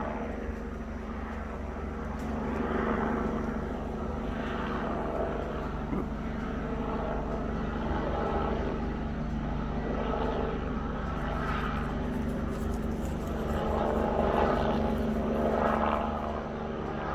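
National Guard helicopter circling overhead: a steady rotor and engine drone that grows louder and softer by turns as it goes round.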